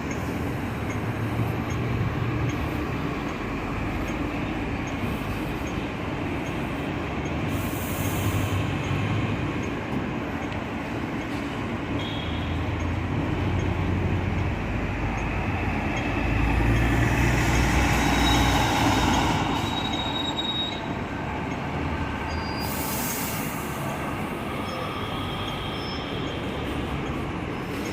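Hong Kong double-decker tram running along its street track, wheels rumbling on the rails. Brief faint high wheel squeals come through a few times, and the rumble is loudest a little past the middle.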